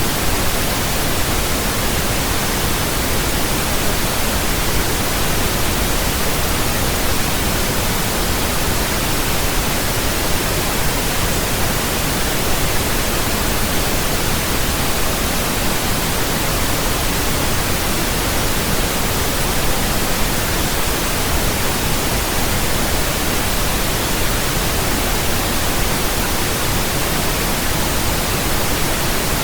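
Steady pink noise: an even, unchanging hiss spread across all pitches, deeper than white noise, with no breaks or changes.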